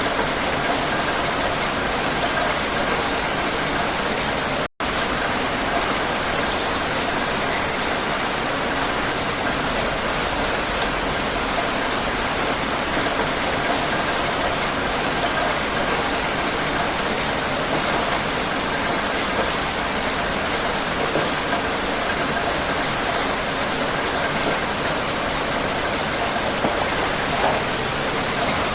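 Heavy rain falling steadily, a dense even hiss of drops on a surface. The sound cuts out completely for a split second about five seconds in, then resumes unchanged.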